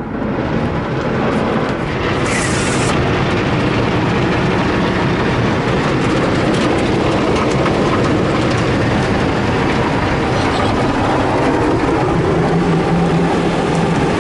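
Ryko SoftGloss XS car wash at work: a loud, steady rush of spraying water and running machinery, with a brief high hiss about two seconds in.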